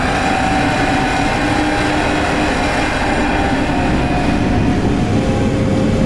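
Very large metal spring bolted to a wooden beam, heard through a contact mic: a loud, continuous metallic rumble with held ringing tones above it that change pitch now and then.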